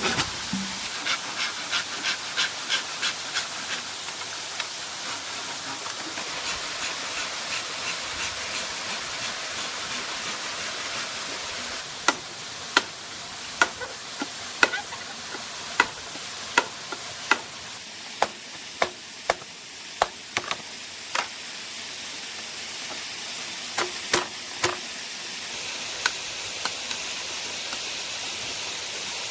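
Hand saw cutting bamboo in quick strokes for the first few seconds, over the steady rushing hiss of falling water. From about twelve seconds in come sharp knocks, roughly one a second, then a few more near the end.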